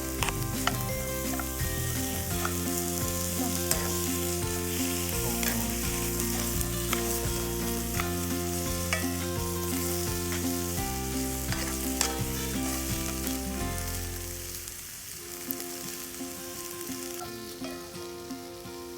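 Food sizzling as it fries, a steady hiss with scattered crackling pops, over background music that fades out about three-quarters of the way through.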